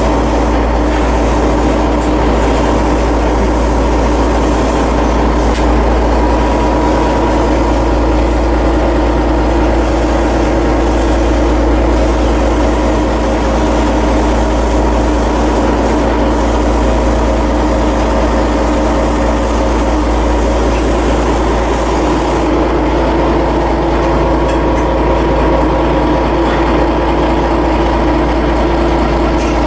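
Heavy machinery running steadily: a loud, even mechanical drone with several steady tones over a deep rumble. The highest hiss drops away about two-thirds of the way through.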